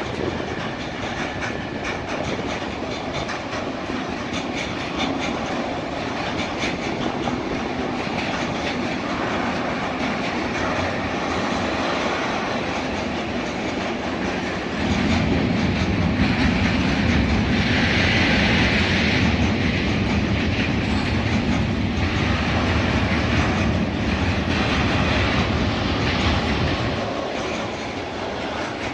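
Freight train of tank wagons rolling past, a steady rumble and clatter of wheels on the rails. The sound grows louder and deeper about halfway through and eases near the end.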